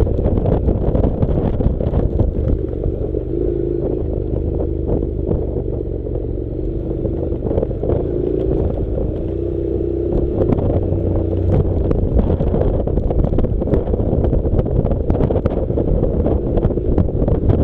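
Honda NC700's parallel-twin engine running steadily as the bike rides over a rough dirt track, its pitch rising and falling a little, under wind buffeting the microphone and frequent short clicks and knocks.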